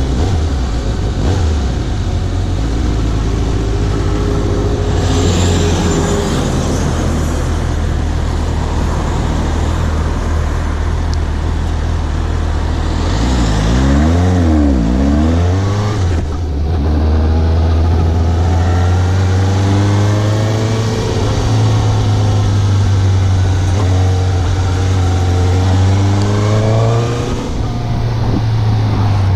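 Suzuki GSX750 motorcycle's inline-four engine running under way. About halfway through its pitch drops and comes back up, and in the second half it climbs in repeated rises as the bike accelerates through the gears.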